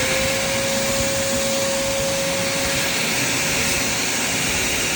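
Vacuum cleaner running steadily at full speed: one steady motor whine over a loud rush of air.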